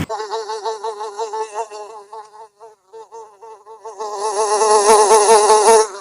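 Flying insect buzzing, a wavering, pulsing drone that fades in the middle and swells loudest near the end.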